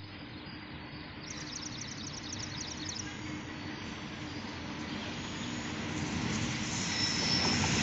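Freight train hauled by an electric locomotive approaching on electrified track after leaving a station, a low rumble growing steadily louder. A high whine comes in near the end.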